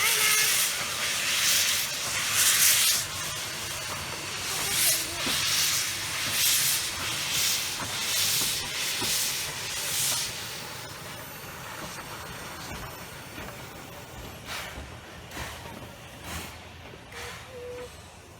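Steam locomotive exhaust chuffing at about one beat a second as it works along the line, the beats growing fainter after about ten seconds.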